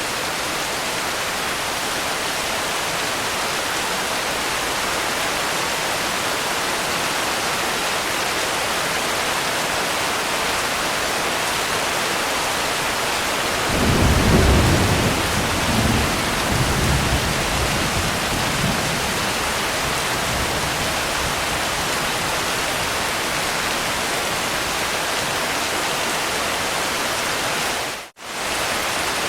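Steady rain hiss, with a low rumble of thunder rising about halfway through and fading over several seconds. The sound cuts out for a split second near the end.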